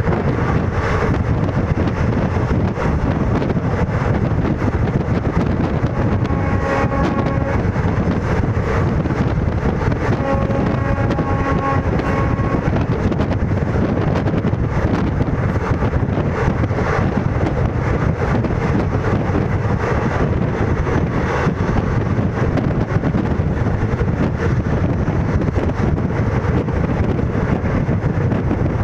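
Indian Railways ICF passenger coach running at about 110 km/h: a loud, steady rumble of wheels and running gear on the rails. A pitched tone sounds twice, briefly, about six and ten seconds in.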